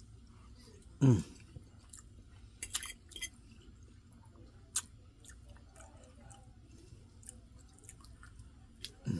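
A person chewing a mouthful of rice and gravy with cube steak close to the microphone, with a few sharp short clicks and smacks and one louder brief sound about a second in.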